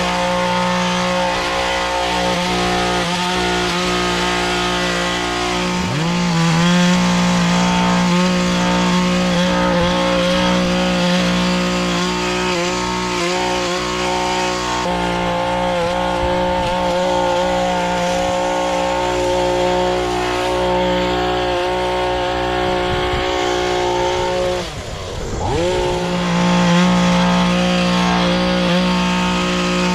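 Small gas engine of lawn equipment running steadily under load. Its pitch sags briefly about six seconds in and again near the end, as if it bogs in heavy grass, then picks back up.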